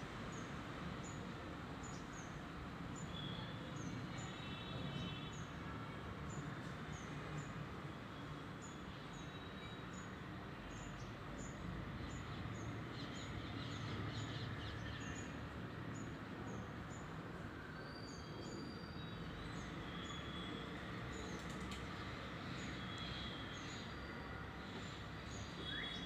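Birds calling in trees: a short high chirp repeats evenly about one and a half times a second, with scattered other bird calls over it, against a steady low rumble of background noise.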